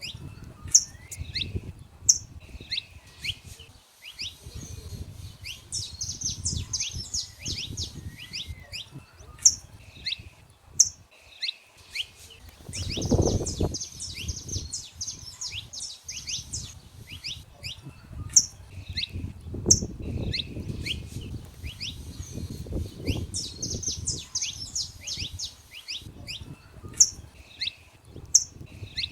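Saffron finches singing, a steady run of sharp chirps and rapid song phrases, some notes standing out loud every second or so. A low rumble runs underneath, swelling about 13 seconds in.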